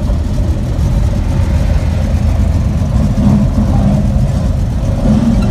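Car engine running with a steady low rumble, heard from inside a 1951 Chevrolet rolling slowly in a cruise line. The engine picks up a little about three seconds in and again near the end.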